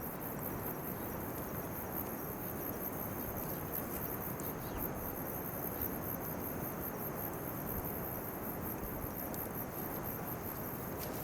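Crickets chirping steadily in a fast, high, pulsing trill, over a steady low rushing noise with a few faint ticks.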